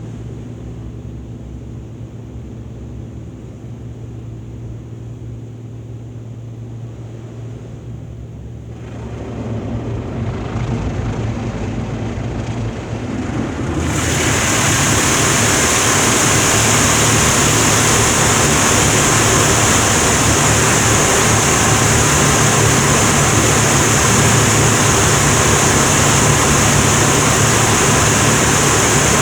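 Automatic car wash machinery running: a steady low hum, then a rushing spray noise that starts about nine seconds in and jumps to a loud, steady, hissing rush about fourteen seconds in, as the next stage of the wash starts up.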